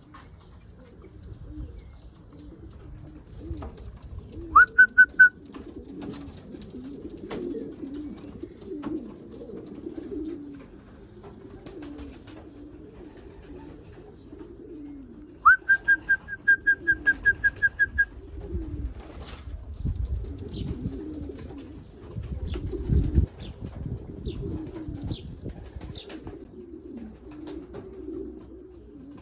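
Racing pigeons cooing continuously in and around the loft. Twice a loud series of high, evenly spaced pips cuts in: about four pips at about five seconds, and about a dozen around the middle. Scattered clicks and a few low thumps are heard too.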